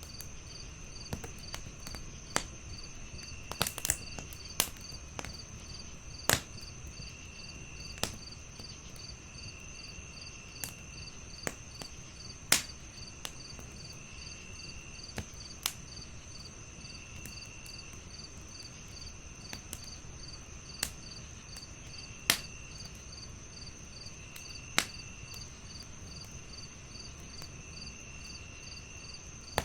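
Crickets chirping steadily: several insects overlapping, one with a regular rapid pulse and another giving short trills every second or so. Over them a wood fire crackles, with scattered sharp pops and snaps, a few much louder than the rest.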